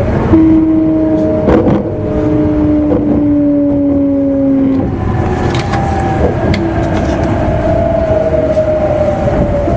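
Traction motors and inverter of an E259 series Narita Express motor car whining, heard from inside the car over a steady running rumble. The whine slides slowly down in pitch as the train slows under braking, and a new, higher set of tones takes over about five seconds in. A few knocks from the wheels come through as well.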